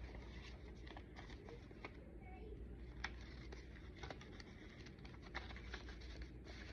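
Pages of a thick handmade paper junk journal being turned and handled: soft paper rustles and scattered light clicks, over a steady low hum.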